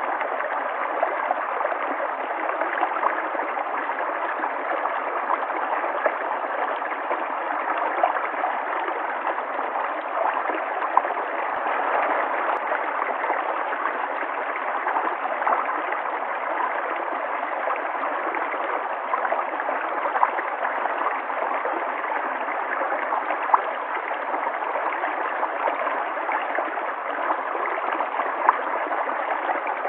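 River water flowing in a steady rush, with a few brief louder moments scattered through it.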